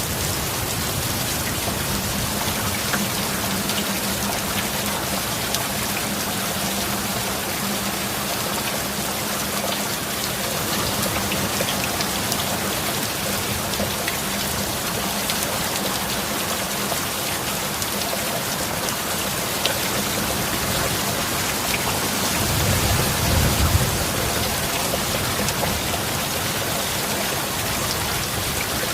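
Steady heavy rain hissing with individual drops pattering on a surface, with a faint low steady tone underneath for much of the time. About three-quarters of the way through, a brief low rumble of thunder rises and fades.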